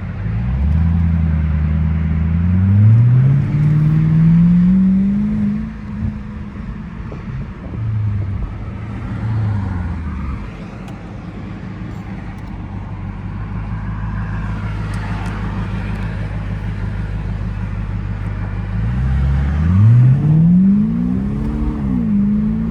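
BMW E60 550i's V8 running through a muffler-deleted exhaust: revved up in the first few seconds, settling to a steady idle, then revved up and back down again near the end.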